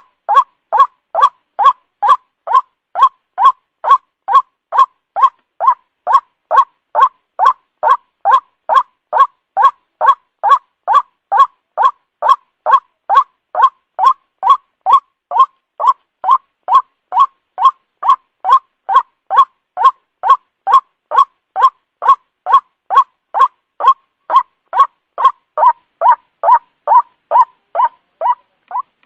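White-breasted waterhen (ruak-ruak) call used as a lure: short, loud calls repeated at an even pace of about two a second. The calls stop near the end.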